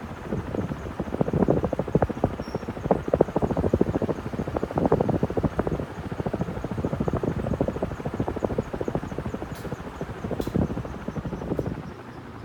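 KDK B56YK industrial ceiling fan running, its blades making a rapid rhythmic chopping pulse that swells and fades. The sound drops to a quieter steady noise at the very end.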